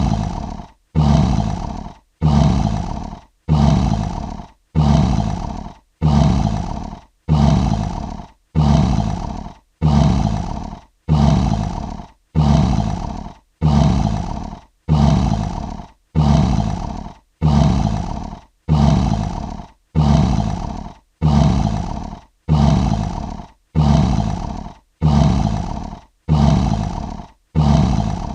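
Lion sound effect: short grunting roars repeated evenly about once a second, each starting loud and fading out, with a brief silence between. The repeats look identical, like a looped sample.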